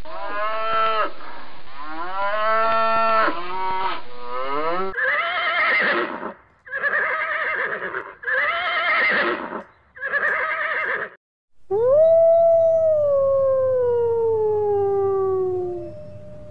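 A sequence of animal calls: first several short bovine lowing calls, then four quavering horse whinnies, then, after a brief gap, a wolf's long howl sliding down in pitch, with a second howl beginning near the end.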